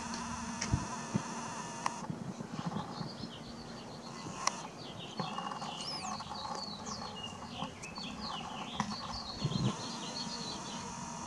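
Birds chirping outdoors, many short high notes in quick succession, with one rising-and-falling whistle about halfway through. A faint steady hum stops about two seconds in and returns near the end.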